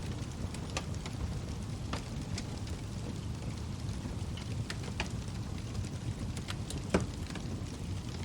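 Log fire burning in a fireplace: a steady low rumble of the flames with scattered sharp crackles and pops, one louder pop near the end.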